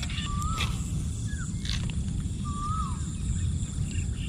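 A bird calling with a short whistled note that rises and then falls, about three times over a few seconds, with a fainter note in between. It sounds over a steady low rumble.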